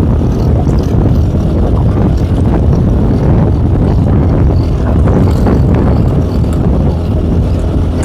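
Tomos ATX small two-stroke motorcycle engine running steadily under load while riding uphill.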